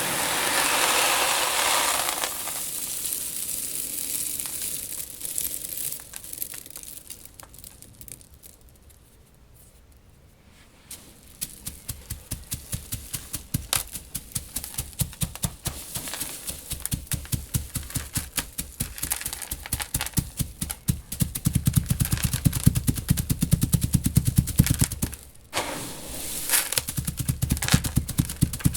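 Loose seed shifting and pouring in a tank: a hissing rush at first that fades away, then a quickening run of dry clicks and rattles. In the last few seconds a low steady hum joins in.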